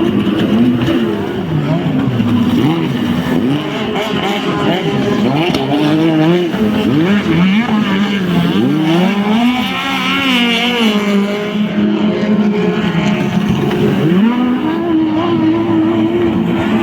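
Racing powerboat engines running hard, several at once, their pitch rising and falling over and over as the boats accelerate and ease off.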